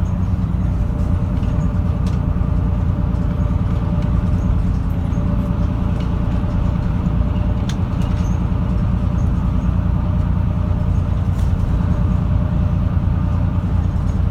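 Inside a moving route bus: the engine and road noise run steady and low. A few faint clicks or rattles come through.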